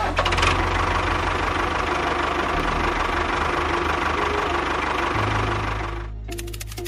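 A small engine running steadily with a rapid, even knocking beat. About six seconds in, the higher part of the sound stops and a low hum remains.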